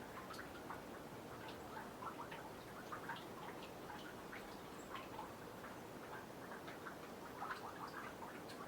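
Melting snow dripping from a boardwalk into a nearly frozen pond: faint, irregular little plinks, a few a second, over a soft steady hiss.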